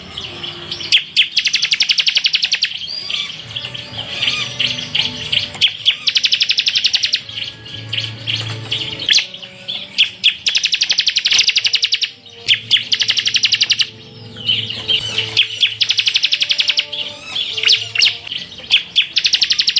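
Ciblek semi (a prinia) singing its rapid 'tembakan' song: fast, buzzing trills lasting a second or two each, about half a dozen times, with sharp chirped notes between them.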